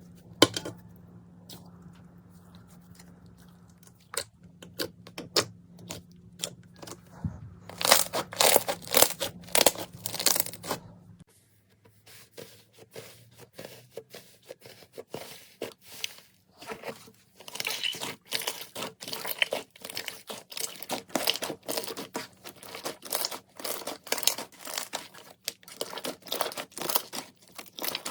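Slime being squeezed and pressed by hand, giving rapid runs of small crackles and pops, denser in the second half.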